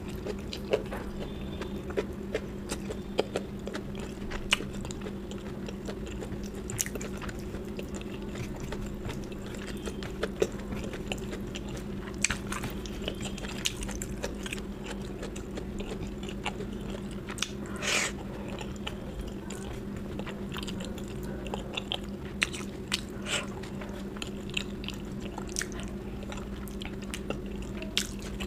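Close-up chewing and biting of food, with many short, sharp mouth clicks scattered throughout over a steady low hum. One longer, louder noise comes about two-thirds of the way through.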